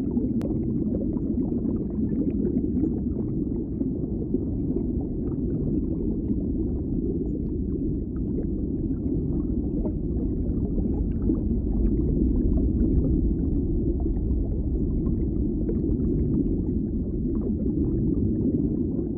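Creality Ender 3 V3 3D printer running a print: a steady low hum from its motors and fans with scattered faint clicks, cutting off suddenly at the end.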